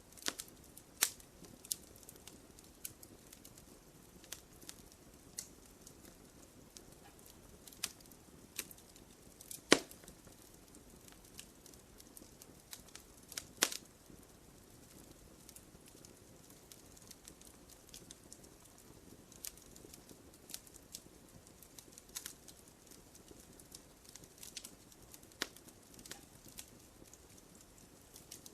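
Wood fire crackling in a fireplace: scattered, irregular pops and snaps over a faint steady hiss, with two louder pops about ten and thirteen and a half seconds in.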